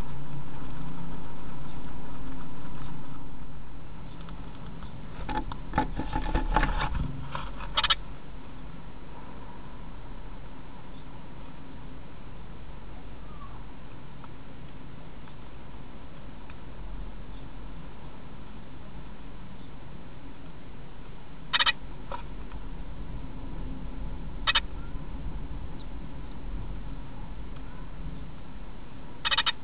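Scratching and rustling inside a great tit nest box as the bird shifts in the nest, with a few sharp scrapes. Through the middle comes a run of faint high peeps, a little more than one a second, from the newly hatched chicks. A steady low sound fades out in the first few seconds.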